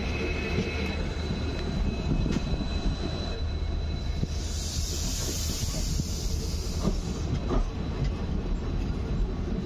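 Express passenger train running at speed, heard from on board: a steady rumble of wheels on track with a thin high whine over it. A hiss rises over the rumble about four seconds in and dies away about three seconds later.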